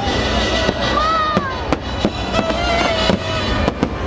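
Fireworks launching and bursting with repeated sharp bangs, over the fireworks show's musical soundtrack.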